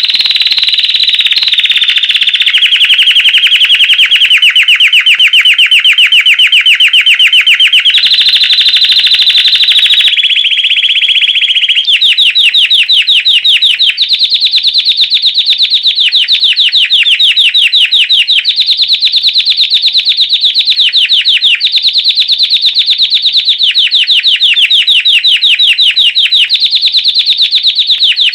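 Belgian canary singing continuously in fast trills of rapidly repeated notes, switching to a new trill at a different pitch every couple of seconds.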